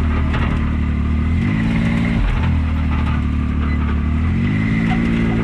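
Can-Am Maverick X3 side-by-side's three-cylinder engine running while manoeuvring at low speed, its revs rising and falling twice.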